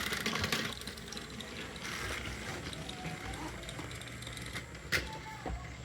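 Motorised toy train engines running on their track, small electric motors and plastic gears whirring and clicking, with one sharp click about five seconds in.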